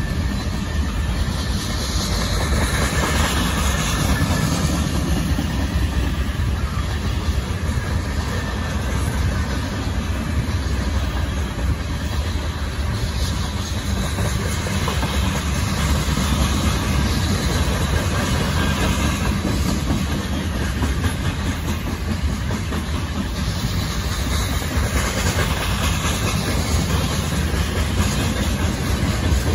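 Covered gondola cars of a mixed freight train rolling past close by: a steady, deep noise of steel wheels running on the rails that holds even throughout.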